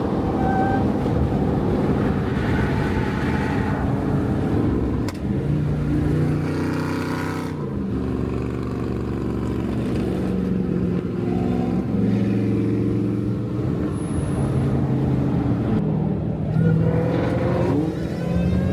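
Dodge Charger R/T's 5.7-litre Hemi V8 engine and exhaust running under way, its steady drone stepping up and down in pitch every few seconds as the revs change.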